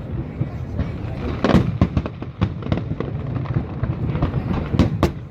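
Aerial fireworks display: a rapid, irregular barrage of bangs and crackles over a continuous rumble, with the biggest blasts about a second and a half in and again near the end.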